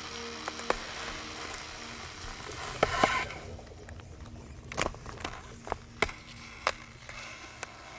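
Ice crackling and cracking as seawater freezes: a crackling hiss with sharp, irregularly spaced cracks. The hiss thins out about three seconds in, and single cracks go on after that.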